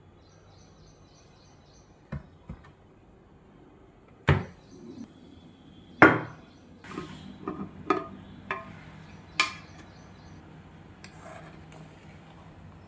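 Irregular sharp knocks and clatters of household or kitchen things being handled and set down, the loudest about four and six seconds in and a quick run of them a little later. A faint repeated bird chirp sounds near the start.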